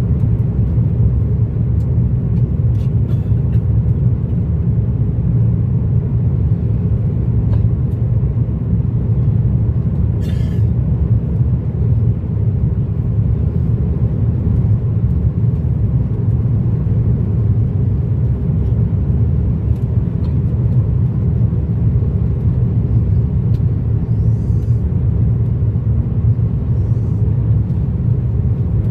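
Airliner cabin noise from inside the passenger cabin: a steady, even low rumble of engines and airframe while the plane is on the ground after landing, with a few faint clicks.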